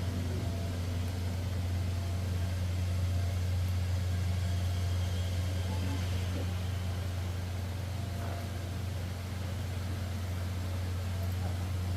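Steady low drone of a car heard from inside the cabin while it runs.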